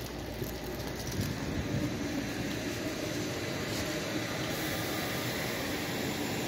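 Deutsche Bahn ICE electric train passing close by: the steady running noise of its wheels on the rails, with a faint hum, grows louder over the first couple of seconds and then holds as the cars go past.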